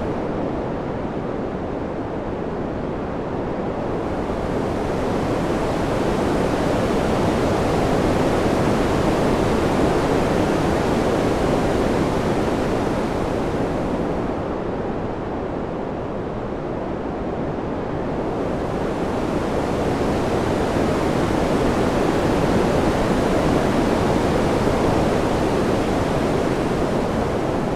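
Ambient wind recording: a steady rushing noise that swells and eases slowly, growing louder and brighter about a third of the way in, dipping again past the middle, and rising once more toward the end.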